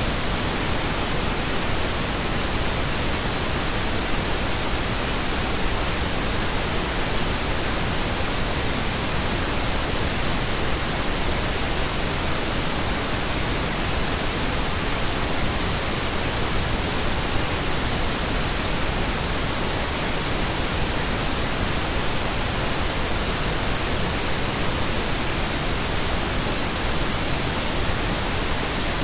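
Steady pink noise: an even, unchanging hiss across all pitches, generated as a sleep aid.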